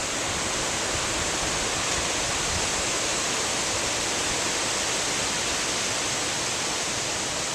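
Strong wind rushing past the microphone in a steady, even hiss, with no marked gust.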